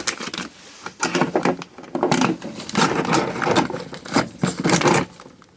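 Rummaging among tools: an irregular run of knocks, clinks and clatters as things are moved about in search of a pair of welding pliers.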